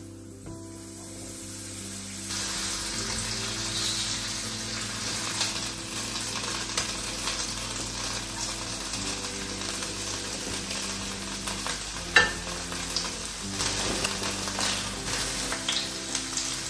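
Salmon fillets and onions frying in butter in two pans: a steady sizzle that swells about two seconds in as the fish goes into the hot pan, with scattered clicks of utensils and one sharper knock about twelve seconds in.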